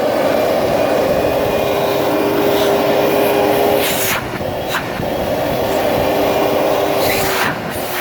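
Hoover 1500 W wet-and-dry vacuum cleaner running steadily. A steady whistling tone comes in twice for a few seconds, with a couple of brief sharp noises about halfway and near the end.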